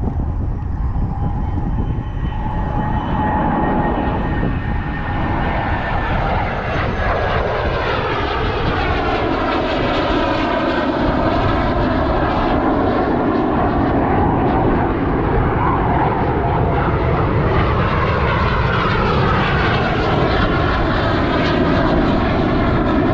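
Military jets flying over: a loud, continuous jet roar that grows stronger after the first few seconds, with tones sweeping up and down through it.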